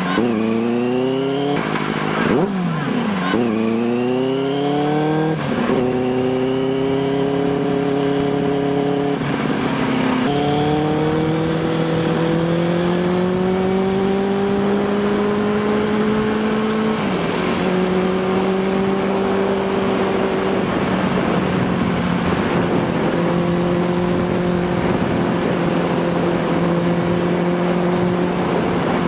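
Inline-four engine of a Benelli TNT 600i through an aftermarket IXIL exhaust, accelerating through the gears. The pitch climbs and drops back at each upshift, about five times in the first 17 seconds, with the gaps between shifts growing longer. It then settles to a nearly steady pitch, cruising.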